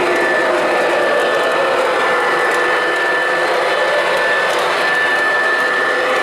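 O scale model train running on the layout: a steady whirring hum of the locomotive and wheels rolling on the rails, with a few faint steady tones through it.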